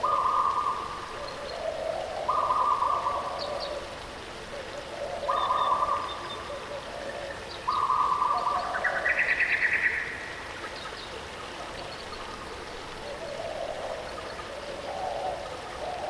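Birds calling over the steady rush of a waterfall. Long, level-pitched notes of about a second each repeat every two or three seconds, and a higher, stepped call comes about halfway through.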